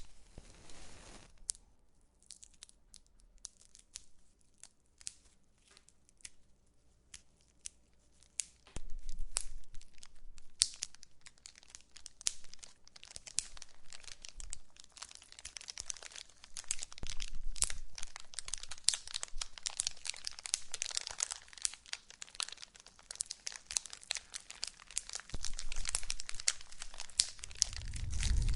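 Wood fire crackling in a fireplace: sparse, sharp pops at first, then from about nine seconds in a dense run of crackles over a steady hiss of flames. A low rumble joins near the end.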